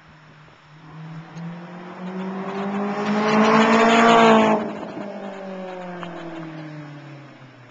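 Honda S2000 with a T1R V3 70 mm single exhaust and test pipe accelerating hard, the exhaust note climbing in pitch and getting louder. About four and a half seconds in the loud rasp cuts off abruptly, and the note then slides lower and fades as the car pulls away.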